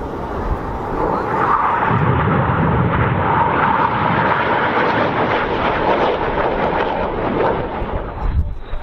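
Jet noise from the Red Arrows' BAE Hawk T1 jets flying in display, swelling about a second in and holding steadily, with a short drop near the end.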